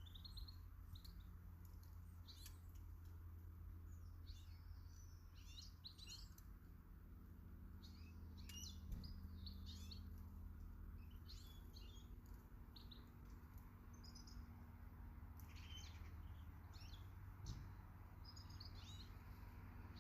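Small garden birds chirping and calling now and then, short high chirps scattered throughout, faint over a steady low hum.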